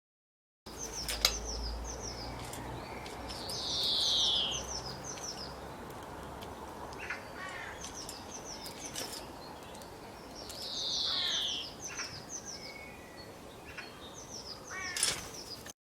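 A songbird singing the same phrase twice: a run of short, high, falling chirps with a louder buzzy falling note in the middle, over steady outdoor background noise.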